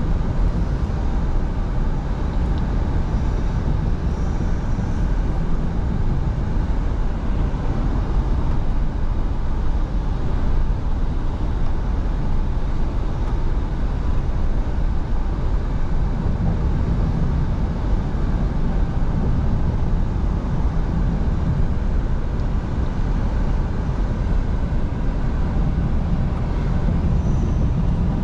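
Scania V8 diesel truck driving at a steady speed: a continuous low engine drone mixed with road and tyre noise.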